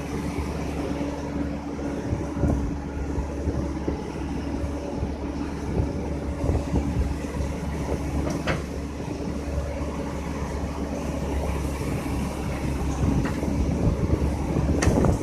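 Excavator's diesel engine running steadily with a low hum, with a couple of sharp clicks about eight seconds in and near the end.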